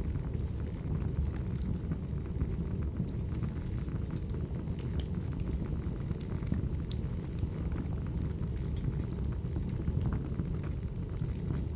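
Firewood burning: a steady low rumble of flames with scattered sharp crackles and pops from the logs, the loudest about five, seven and ten seconds in.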